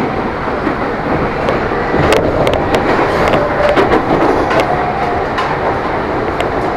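Electric commuter train (KRL Commuter Line) running on the rails: a steady rumble with clicks and knocks from the wheels, bunched a couple of seconds in.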